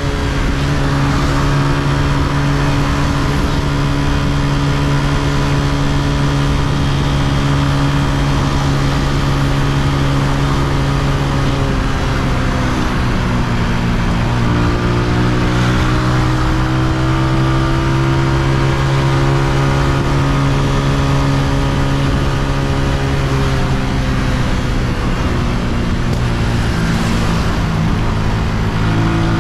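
Honda CG125's air-cooled single-cylinder four-stroke engine running steadily under way. Its note dips and settles at a new pitch about halfway through, and changes again near the end.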